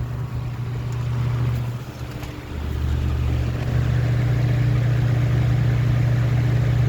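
A worn Lasko 3733 box fan running on high after a cold start in freezing weather, its motor giving a steady low hum with a fainter higher tone. The sound dips briefly about two seconds in, then holds steady.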